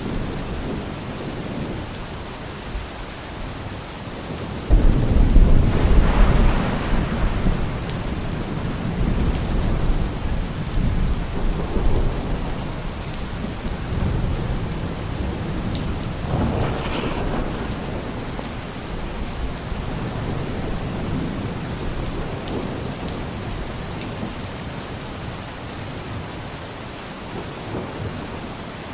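Steady rain falling, with a clap of thunder about five seconds in that rumbles and fades over several seconds, and a second, weaker roll of thunder about halfway through.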